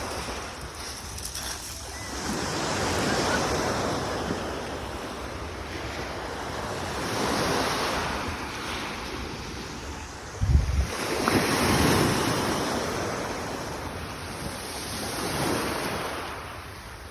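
Sea waves breaking on a beach, slightly rough surf swelling and falling away every few seconds. Wind buffets the microphone, most strongly in a brief low rumble about ten seconds in.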